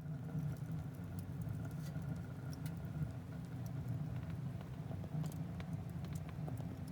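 Wood fire crackling: scattered sharp pops and ticks over a low, steady rumble.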